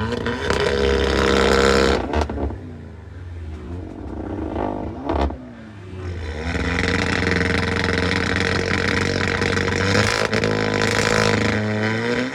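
Performance car engine revving in repeated bursts: loud for the first two seconds, a short rise and fall about five seconds in, then a longer stretch of revving from about six and a half seconds in until near the end.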